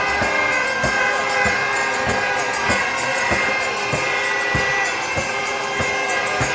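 Crowd noise mixed with music, over a steady thumping beat of about one and a half beats a second.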